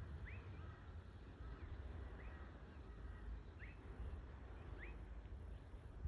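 Faint bird calls: short rising chirps repeated every second or so, over low, steady background noise.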